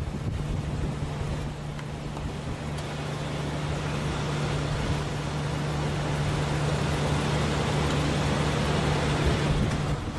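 A vehicle engine running at a steady pitch under a rushing noise that grows louder toward the end.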